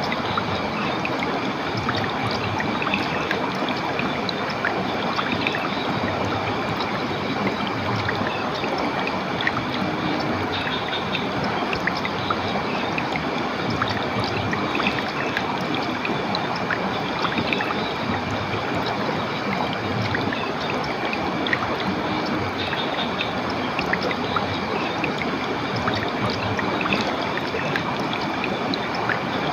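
Flowing water of a stream or small waterfall: a steady rushing with some gurgling, even throughout.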